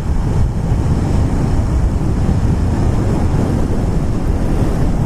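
Steady wind rush buffeting a helmet-mounted action camera's microphone while riding, with the Yamaha FZ-10 motorcycle's engine and road noise underneath.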